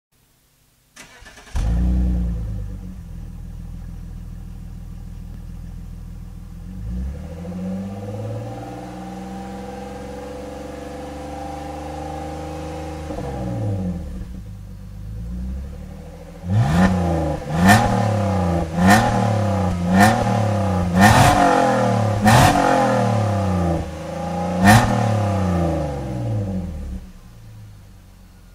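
BMW E46 325i's 2.5-litre M54 straight-six on its stock exhaust, warm. It starts with a surge about a second and a half in and settles to idle, then revs up slowly and falls back. It then gives about seven quick sharp blips of the throttle, each falling back toward idle, before settling and dropping away near the end.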